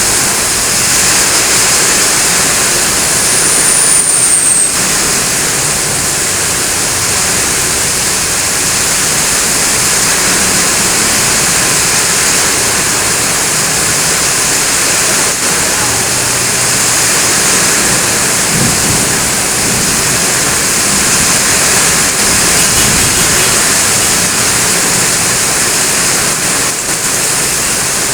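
Heavy rain pouring down steadily, a loud, even hiss with no thunderclap. There is a brief high, falling whistle about four seconds in.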